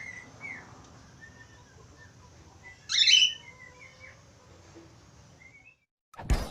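Budgerigar chirping in short faint calls, with one loud chirp about three seconds in. The birdsong drops out shortly before the end, and a sudden loud sound begins right at the end.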